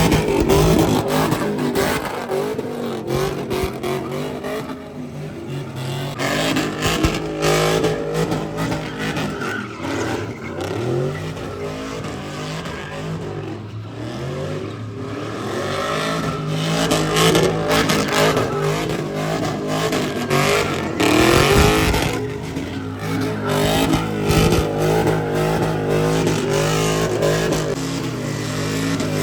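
A car engine revving hard and repeatedly, its pitch rising and falling, over a noisy wash of tyre noise during a burnout.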